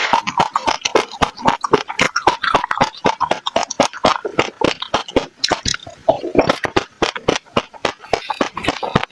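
Passion fruit seeds being bitten and crushed in the mouth close to the microphone: a rapid, uneven run of crisp cracks and pops, several a second.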